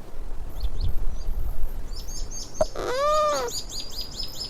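A llama giving one loud cry about three seconds in, rising and then falling in pitch, over small high bird chirps and a low rumble.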